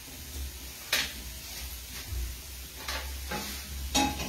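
Diced potato frying in a pan on a gas stove, a soft steady sizzle. Three sharp knocks, about a second in, near three seconds and near four seconds, as the pans and stove are handled.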